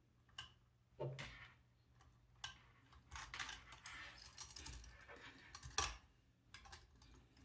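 Small plastic parts and cables being handled during robot-kit assembly: light clicks and taps, with a stretch of rattling and rustling in the middle.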